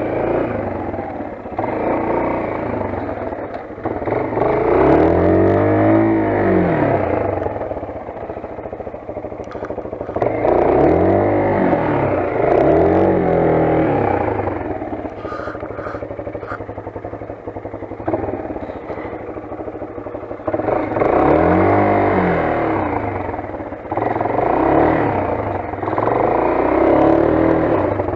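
Motoland XR 250 trail motorcycle's engine as it is ridden, revving up and easing off about five times, with clatter over the engine note.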